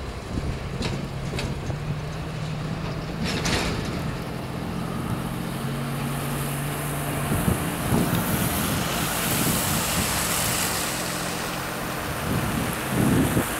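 Diesel locomotive engine of an EMD GP59 running with a steady low hum, with a few sharp clicks early on; about halfway through the engine hum drops away and wind buffeting the microphone takes over.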